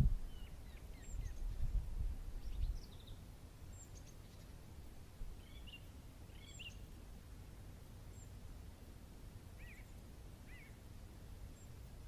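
Small birds giving scattered short chirps in a pine forest, over a faint steady outdoor hush, with a low rumble during the first three seconds.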